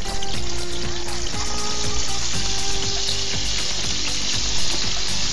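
Potato pieces sizzling in hot oil as they are added to the pan, the frying hiss growing stronger as more go in.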